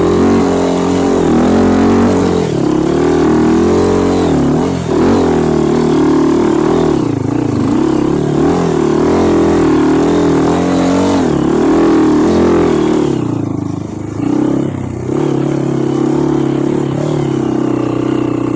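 Trail motorcycle engine running loud, its pitch rising and falling again and again as the throttle is opened and closed, with a short dip about fourteen seconds in.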